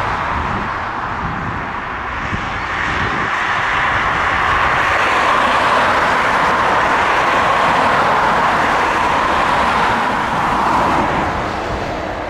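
Jet engine noise from a passing Boeing 757 airliner, a loud steady rush that swells to its loudest in the middle and fades near the end.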